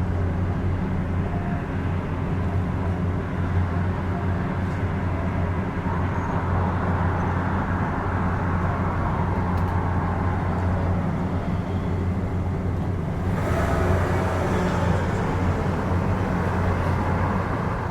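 Steady low mechanical hum of vehicles or trains. About 13 seconds in, a louder rushing noise rises and holds to near the end, like something passing close by.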